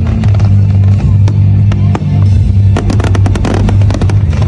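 Fireworks banging and crackling over music with deep held bass notes, the bangs coming thickest in a rapid cluster about three seconds in.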